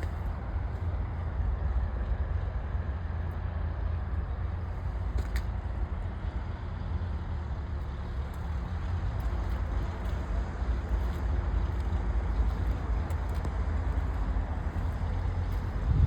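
Acura Integra Type S running: a steady low rumble with an even wash of noise and no change in pitch.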